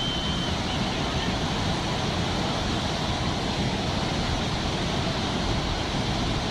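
Steady rushing of floodwater, an even roar with no breaks.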